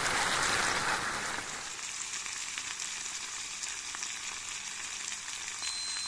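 Grasshoppers frying in hot oil in a small pot, a steady sizzle with fine crackling and scattered pops. For about the first second and a half it is louder while a bamboo stick stirs them, then it settles to a lower, even sizzle.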